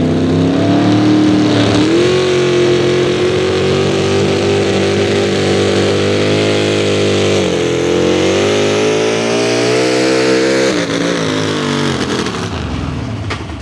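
A 4x4 pulling truck's engine running hard under load on the pull, its pitch rising as it winds up, then dropping and dying away near the end as the run falters. The announcer puts the failure down to either fuel or fire.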